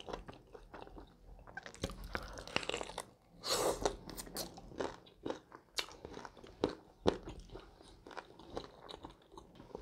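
A person chewing spicy fried chicken wings close to a clip-on microphone, with many short wet mouth clicks and smacks scattered throughout and a brief louder sucking-like stretch about three and a half seconds in.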